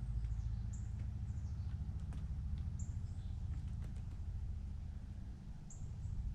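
Small birds giving a few short, high chirps, about four in all, with scattered sharp clicks, over a steady low rumble.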